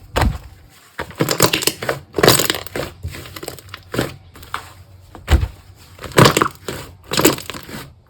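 Slime being pressed and squished by hand, giving a string of crackling, popping squishes at an uneven pace of roughly one a second.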